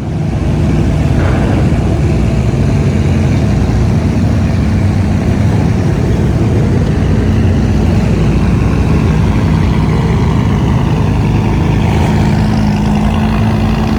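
A car engine running steadily close by, a loud, even low rumble. It starts abruptly and its pitch edges slightly higher near the end.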